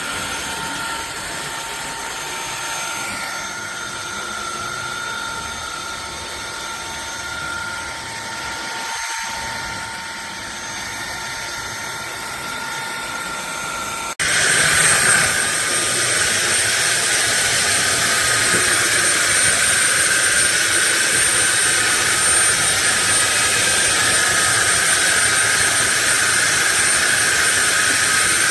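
Fieety cordless stick vacuum cleaner's motor running with a steady whine. About halfway through it jumps suddenly to a louder running with a sharper high-pitched whine.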